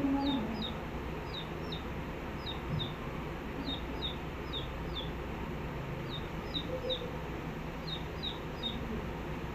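A bird calling over and over with short, high, falling chirps in runs of two to four, over a steady low background rumble.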